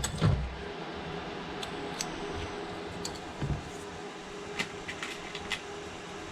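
Small hand tools handled on a repair bench while a broken prying blade is swapped for a new one: a heavier knock at the start and another about three and a half seconds in, with scattered light clicks, over a steady faint hum.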